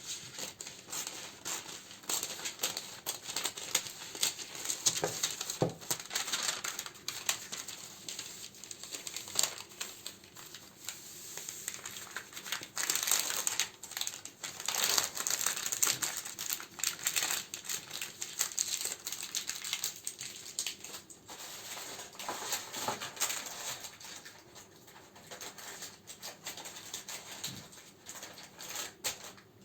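Plastic and paper packaging crinkling and rustling as candles are handled and sorted, with frequent small clicks and taps.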